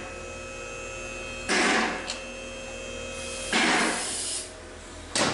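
A hand-held power tool run in short hissing bursts, the longest nearly a second, about two seconds apart, over a steady workshop hum.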